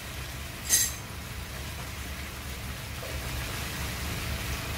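Chicken pieces sizzling steadily in a hot wok over garlic and onion, with one brief sharp clink less than a second in.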